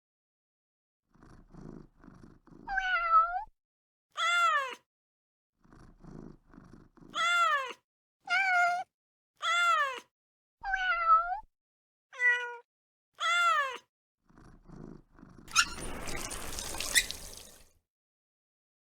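Domestic cat meowing repeatedly, about eight short calls that rise and fall in pitch, with short stretches of low purring between them. Near the end comes a noisy stretch of about two seconds with a few clicks.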